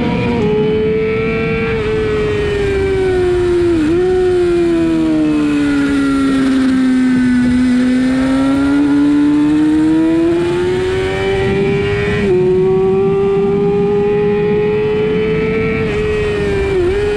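Sportbike engine running hard around a racetrack: the engine note sinks slowly as the bike slows through a long stretch in the middle, then climbs again under acceleration, with quick breaks in the note at gear changes, over a steady rush of wind.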